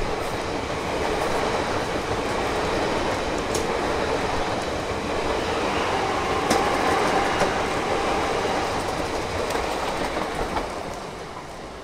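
A High Capacity Metro Train (electric multiple unit) running past along the platform, its wheels clicking over the rail joints. The noise falls away near the end as the last car goes by.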